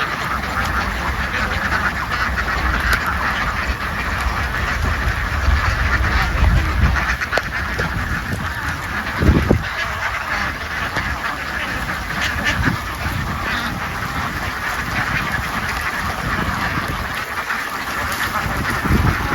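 A large flock of domestic ducks quacking together in a continuous, dense chorus, with a brief thump about nine seconds in.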